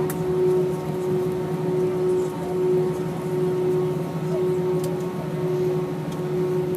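Steady droning hum inside an Airbus A319's cabin on the ground after landing, with a lower and a higher constant tone, the higher one gently pulsing. A few faint clicks sound within it.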